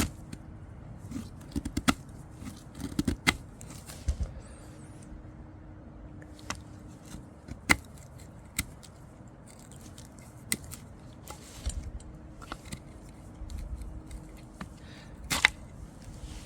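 Freshly sharpened knife shaving curls off a wooden stick, feather-stick carving: irregular sharp clicks and short scrapes, with one louder scrape near the end.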